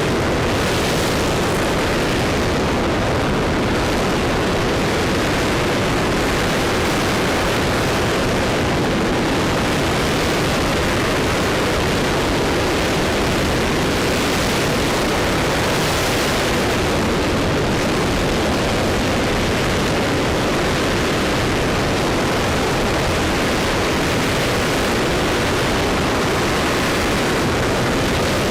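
RS-25 liquid hydrogen–liquid oxygen rocket engine running steadily during a ground test firing: a loud, constant rushing noise with no change in pitch or level.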